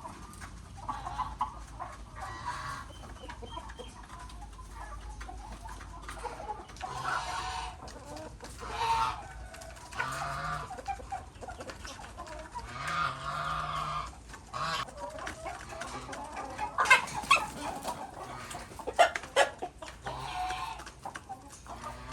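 Chickens clucking on and off, with a few sharper, louder calls about two-thirds of the way through.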